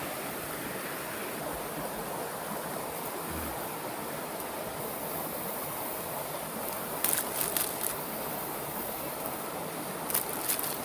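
Water boiling in a small pot over a compact fire pit, a steady hiss, with a few short clusters of sharp clicks about seven and ten seconds in.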